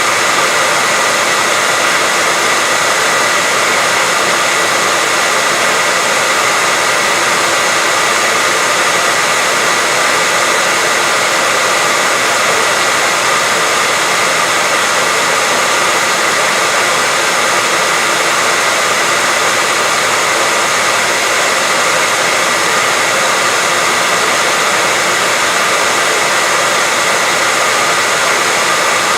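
Steady white noise: an even, unbroken hiss weighted toward the high end, with a faint steady whistle in the middle of the range.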